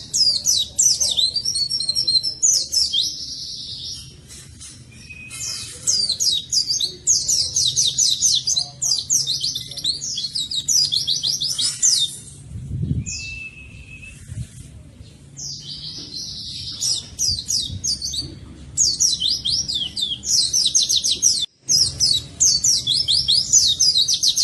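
White-eye (pleci) in full, non-stop 'gacor' song: long runs of rapid, high, downward-sweeping notes broken by short pauses. The sound cuts out briefly near the end.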